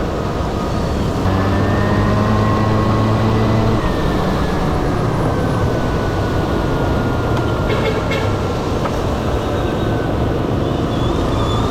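Honda Dio AF18 two-stroke scooter under way: the small engine runs steadily beneath a loud, even wash of wind and road noise, its low hum growing stronger for a few seconds about a second in.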